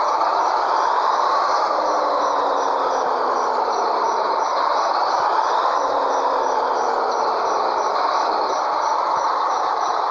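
Scania 113H truck's straight-six diesel running under way over steady road noise. The engine note slowly rises and falls, with a faint, fast, even ticking high above it.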